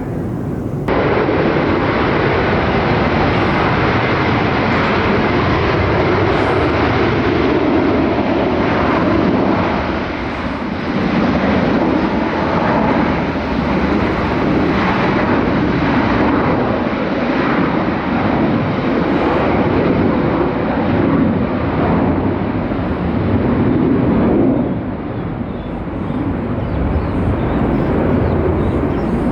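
Jet airliner engines running loud and steady, a broad rushing noise that starts abruptly about a second in and eases off briefly near the end.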